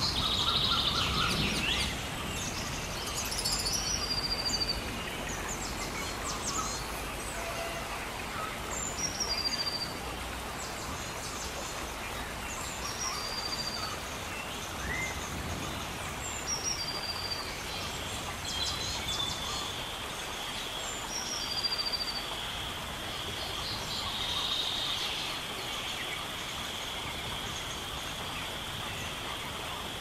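Rainforest ambience: a steady hiss of water under a bird that repeats a short call falling in pitch, about every four seconds. A high, steady whine comes in about two-thirds of the way through.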